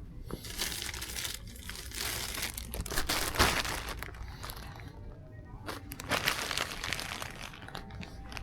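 Packaging crinkling as it is handled, in two spells: the first lasts about four seconds with its loudest crackle about three and a half seconds in, and the second starts near the six-second mark. Faint background music plays underneath.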